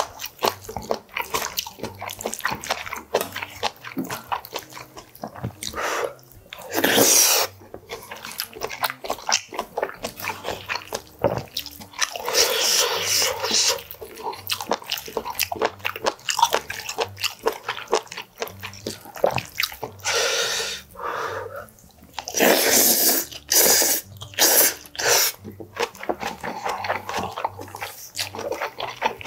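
Close-up eating sounds of a saucy rice bowl: chewing and mouth smacking in quick irregular clicks, with a wooden spoon scooping and scraping in a brass bowl. A few louder noisy stretches of a second or two break through.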